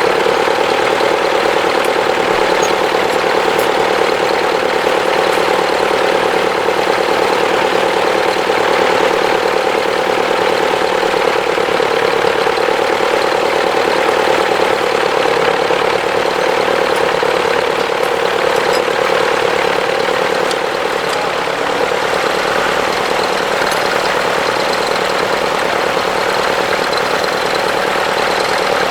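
Tractor engine running steadily at a constant speed, easing off slightly about two-thirds of the way through.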